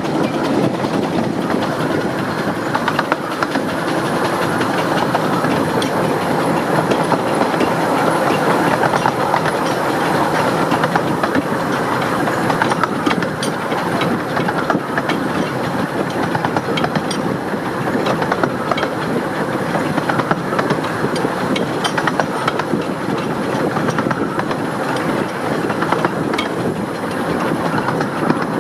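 15-inch gauge steam locomotive 'Northern Rock' working hard up a steep gradient, its chimney exhaust beating loud and steady while the carriage wheels click over the rail joints.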